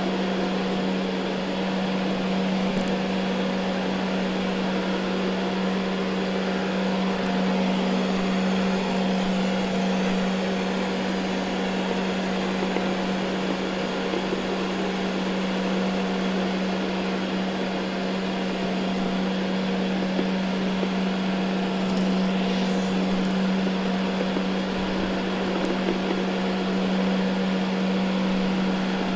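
Ecovacs Deebot N79 robot vacuum running steadily over carpet: a steady low hum with a hiss of suction and brushes over it.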